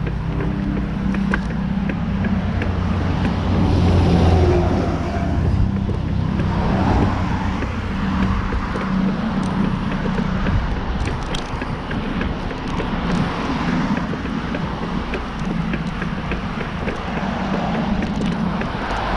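Wind buffeting the microphone and rolling road noise during a bicycle ride, over a steady low hum.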